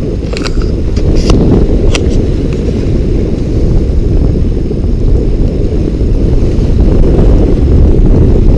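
Strong storm wind buffeting the microphone: a loud, steady low rumble, with a few short ticks in the first two seconds.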